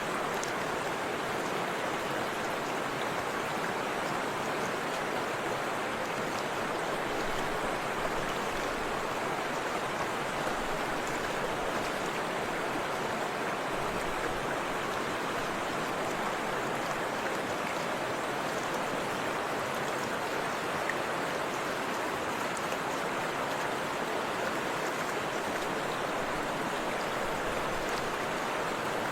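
Forest river water rushing steadily, a continuous even wash of flowing water.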